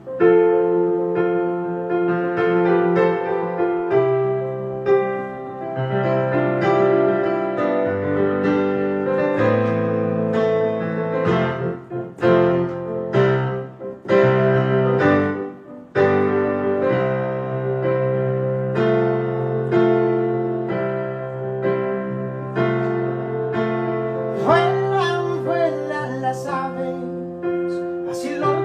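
Piano playing slow sustained chords as the instrumental intro of a song, with a gliding melodic line joining near the end.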